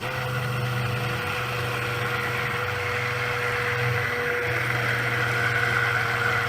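Stick blender switched on and running steadily, blending cold process soap batter.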